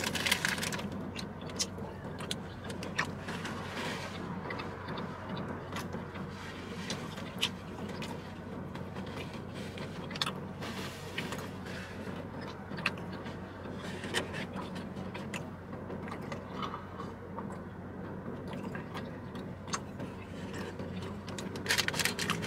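A person chewing a crispy fried patty, with scattered short clicks and crackles from the food and its paper wrapper, over a steady low hum.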